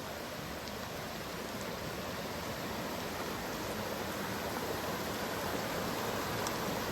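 Steady rush of flowing water, like a forest stream or small waterfall, growing slowly louder.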